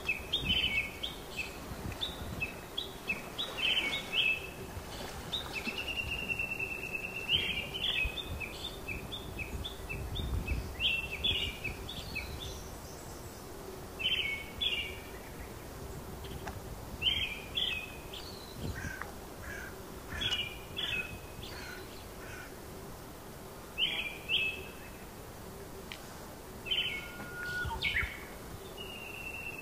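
Songbirds singing: short, high, chirping phrases repeated every two to three seconds.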